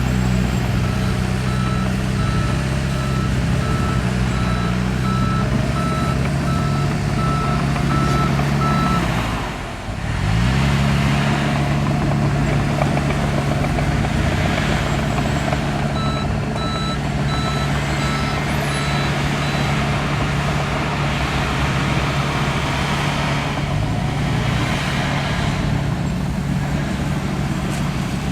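Diesel engine of heavy earthmoving equipment running steadily, with a reversing alarm beeping in two stretches, through the first third and again past the middle. The engine sound dips briefly about a third of the way in.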